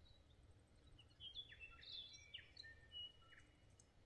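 Faint birdsong: a run of clear whistled notes and short slurs starting about a second in, over a quiet low background hum.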